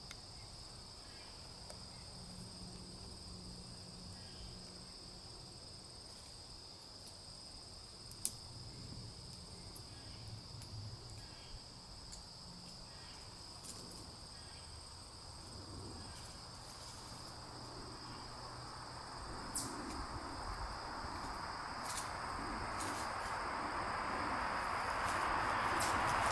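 Insects trilling in a steady, high-pitched drone over the low hum of distant highway traffic. Over the last third, the noise of an approaching vehicle grows steadily louder.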